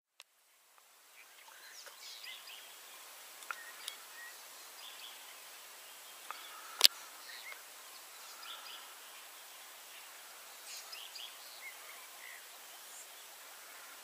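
Outdoor ambience of faint, scattered bird chirps over a steady hiss. A single sharp click comes about seven seconds in, with a few fainter ticks before it.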